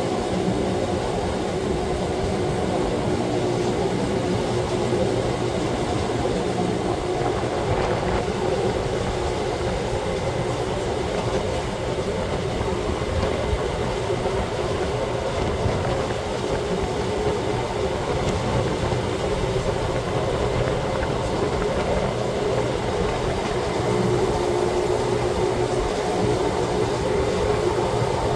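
Wengernalpbahn electric rack-railway train running steadily: a constant rumble with a steady hum from its drive. It grows a little louder near the end.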